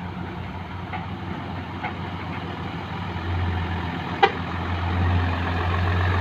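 Dump truck engine running steadily, growing louder about three seconds in, with a single sharp click a little after four seconds.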